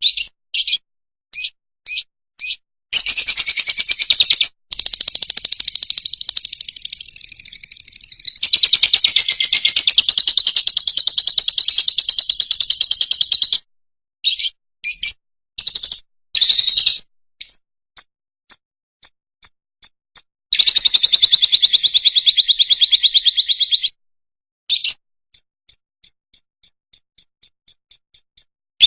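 Fischer's lovebird singing: runs of short, high chirps broken by two long, rapid trills. The first trill starts about three seconds in and lasts some ten seconds; the second starts about twenty seconds in and lasts a few seconds.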